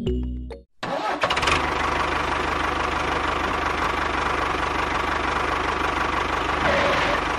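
A motor starts abruptly about a second in, after a brief silence, and runs steadily with a fast, even chugging pulse, like an engine running.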